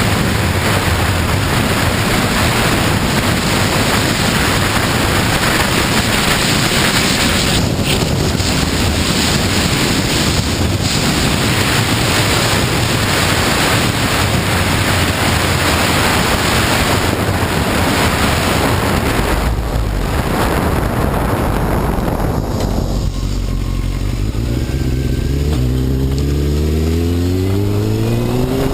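Wind rushing over the microphone on a Honda CBR954RR sport bike at riding speed, with the inline-four engine running underneath. About 23 seconds in the wind noise drops and the engine note climbs steadily as the bike accelerates.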